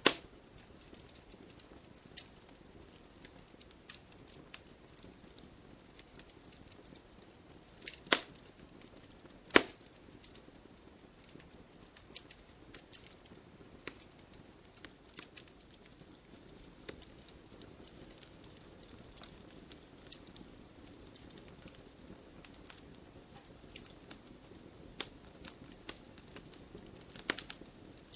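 Campfire burning, with irregular sharp crackles and pops of burning wood over a soft hiss; two louder pops stand out about a third of the way in.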